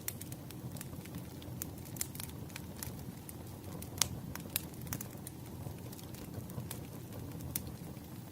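Fireplace crackling: wood fire burning with a steady low rumble and frequent irregular pops and snaps, one sharper pop about halfway through.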